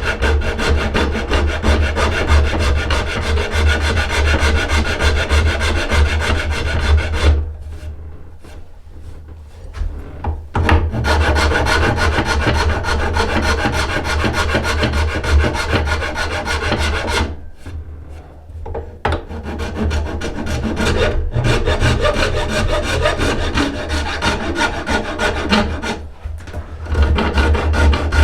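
Hand tool rasping yew bow wood in fast, continuous strokes. The work stops briefly three times: about a third of the way in, about two-thirds of the way in, and near the end.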